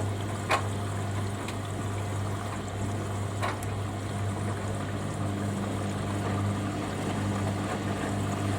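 Hoover Dynamic Next front-loading washing machine with water running and splashing in its drum over a steady low hum. Two sharp knocks come about three seconds apart.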